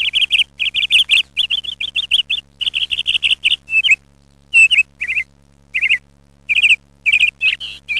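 Bird chirping in quick runs of high chirps, several a second, steady at first and more broken up with short pauses from about four seconds in, over a faint low hum.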